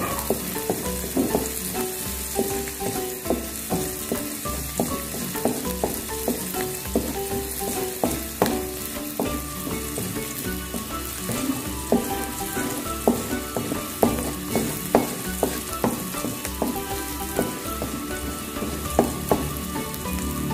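Chopped garlic and shallots sizzling in hot oil in a wok, being sautéed until fragrant, with a steady hiss. A wooden spatula stirs them, scraping and knocking against the pan in irregular clicks.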